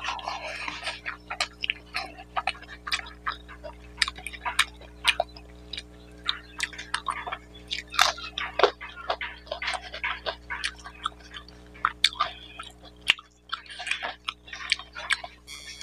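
Close-up eating sounds: wet chewing and lip smacking of mutton curry and rice, a dense run of short sharp mouth clicks and smacks, with fingers squishing rice into the gravy now and then.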